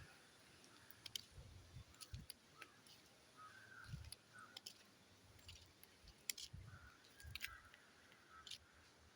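Faint, short bird calls now and then, with scattered light clicks and a few soft low thumps.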